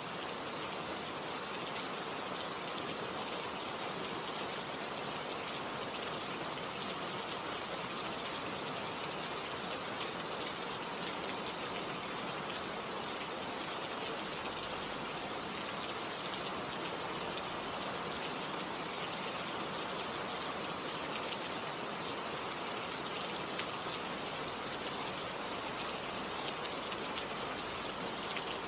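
Steady rain: an even hiss with fine scattered drop ticks, unchanging throughout.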